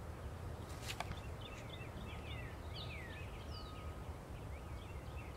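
Outdoor ambience: small birds chirping in many short, quick calls, some sliding down in pitch, over a steady low background noise, with a single sharp click about a second in.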